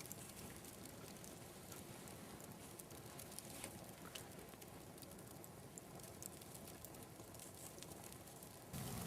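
Wood campfire burning steadily, with faint scattered crackles and pops over a low hiss. Just before the end, a louder, lower sound cuts in abruptly.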